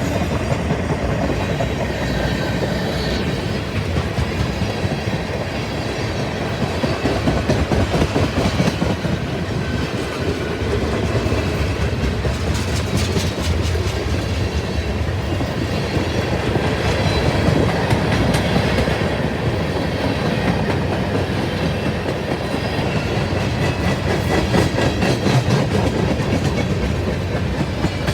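A Norfolk Southern mixed freight train's cars rolling steadily past, with a continuous clicking of wheels over the rail joints.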